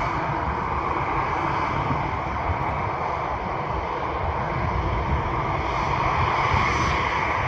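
Aircraft engines running with a steady, even noise.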